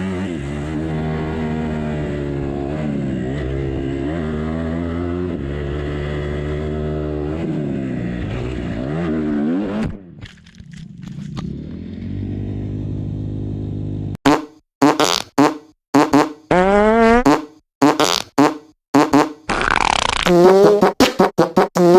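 Dirt bike engine running and revving, its pitch rising and falling. About ten seconds in it drops away briefly, then gives way to a string of short, abruptly cut bursts of a buzzy, horn-like tone.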